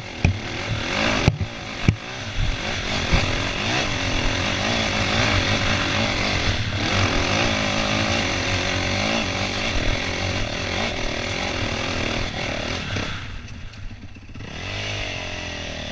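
Dirt bike engine running and revving up and down under load, with a rough, rasping note. It falls back and gets quieter near the end.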